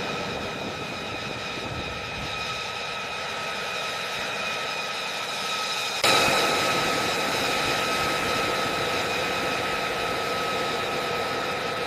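Aircraft turbine engine idling with a steady high whine over a rushing hum. About six seconds in it abruptly gets louder and then holds steady.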